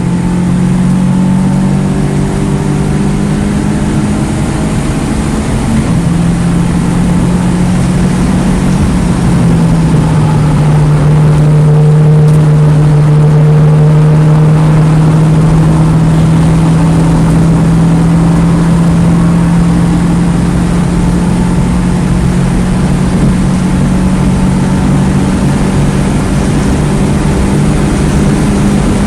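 2009 Mini Cooper S's turbocharged 1.6-litre four-cylinder running at a nearly steady pitch, heard from inside the car. The pitch shifts slightly a few times, and road and wind noise runs underneath.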